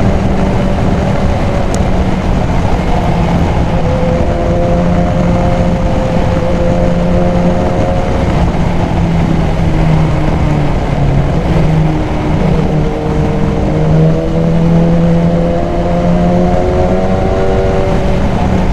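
BMW S1000XR inline-four engine, fitted with a K&N high-flow air filter, running at a steady road speed under a constant rush of wind. Its pitch sags a little about two thirds of the way in and then climbs again.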